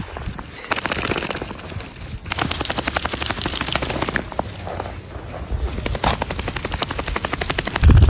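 Dachshund making its hiccup-like noise: fast runs of short clicks in three bursts, with a loud low thump at the very end.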